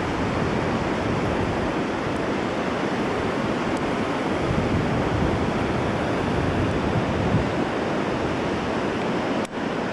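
Steady rushing of water, an even continuous noise with a brief dip near the end.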